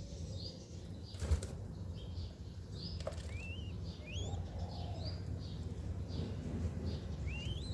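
Birds chirping in a string of short, rising high-pitched notes, roughly two a second, over a steady low hum, with a single brief thump about a second in.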